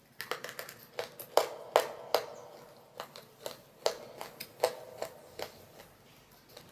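Close-miked crunching of baked clay from a mini clay diya or clay pot: a quick run of sharp, brittle cracks that then comes more slowly and fades near the end.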